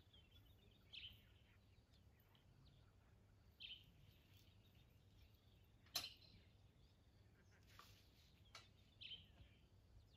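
Faint birds chirping, a short call every few seconds over otherwise quiet surroundings, with one sharp click about six seconds in.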